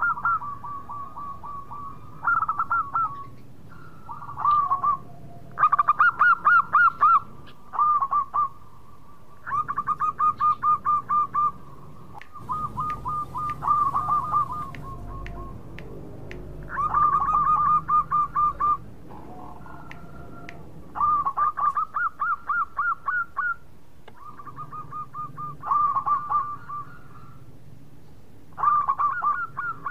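Zebra doves (perkutut) cooing: repeated phrases of quick staccato notes, each lasting a second or two and coming every couple of seconds.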